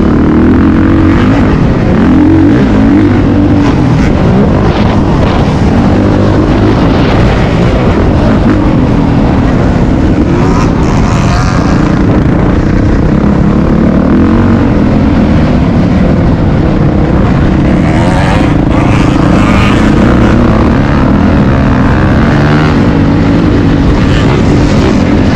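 Motocross dirt bike engine running loud and close, its pitch repeatedly rising and falling as the throttle is worked on and off through the gears.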